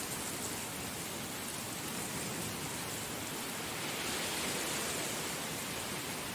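Heavy rain falling steadily, an even hiss that swells slightly about two-thirds of the way through.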